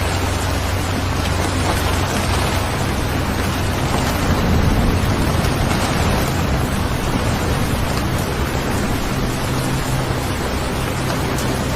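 Steady heavy rain as a continuous hiss, with a low steady drone of held tones underneath. It swells slightly about four to five seconds in.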